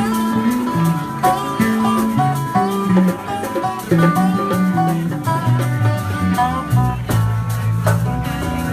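Live band playing an instrumental passage with no singing: a melodic guitar line over bass notes and drums with cymbals.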